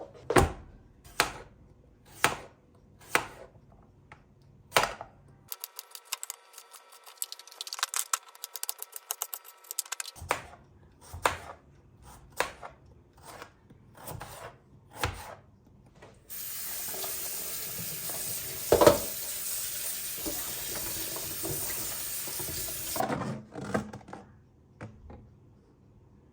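Kitchen work: utensils knocking and clicking on dishes, about one stroke a second, then a steady hiss that starts and stops abruptly and lasts about six seconds, with one louder knock in the middle.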